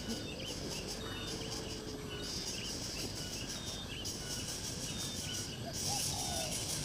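Insects chirring in pulsing waves, with short high bird chirps repeated throughout and a few lower, swooping calls in the last second.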